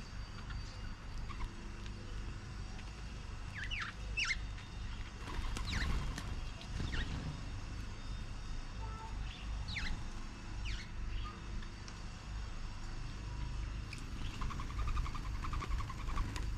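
Short, high bird chirps, single notes and quick pairs scattered through the middle, over a steady low rumble. Near the end comes a run of softer, rapid notes.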